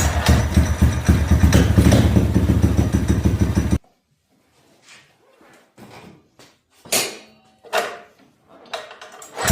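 Small single-cylinder four-stroke mini bike engine running with a rapid even beat after being kick-started, cutting off abruptly about four seconds in. Then a few scattered knocks and clunks, the loudest two about seven and eight seconds in.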